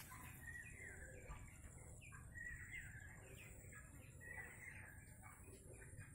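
Birds chirping faintly: short sliding chirps repeated in quick phrases every second or so, over a low background rumble.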